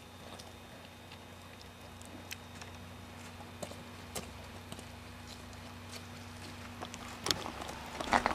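Footsteps: scattered soft steps crunching on the ground, growing louder and closer together near the end, over a faint steady hum.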